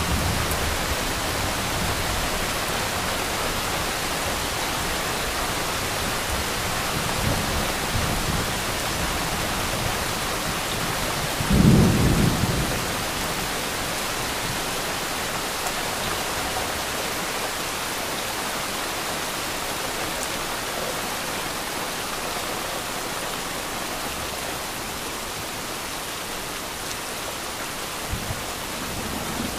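Heavy rain pouring steadily, with one short, loud low clap of thunder about twelve seconds in and a few faint low rumbles before it.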